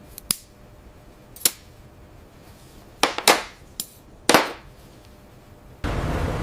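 About six sharp, irregularly spaced knocks, like tools striking hard metal. Near the end a loud, steady rushing noise starts suddenly.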